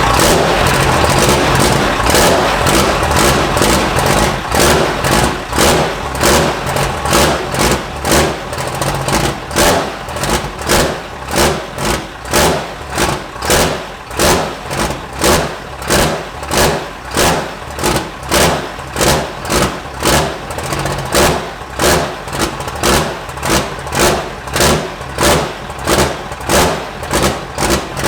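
Cummins inline-six turbo diesel race engine running loud and unsettled on its first start, steady for the first few seconds, then surging in a regular lope about one and a half times a second as the idle speed rises and falls while fuel pressure builds.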